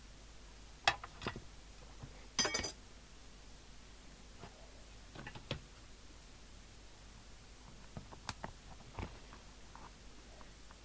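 Scattered light clicks and knocks of small hard objects being handled, with a brief metallic jingle about two and a half seconds in.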